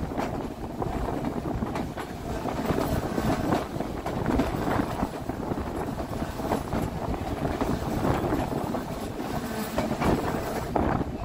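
Narrow-gauge White Pass & Yukon Route passenger train running on the track: a steady rumble of the cars with wheels clattering over the rails.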